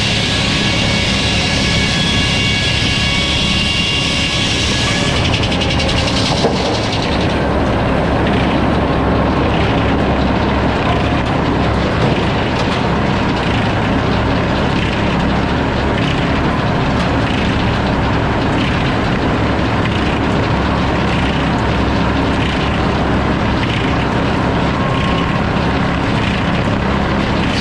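Sawmill running loud and steady with a low machine drone. A high whine rides over it at first and drops away about six seconds in.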